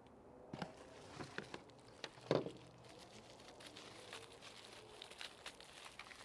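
Handling noises as the chainsaw kit's parts are unpacked: light crinkling of packaging and scattered small clicks, with one louder knock about two and a half seconds in.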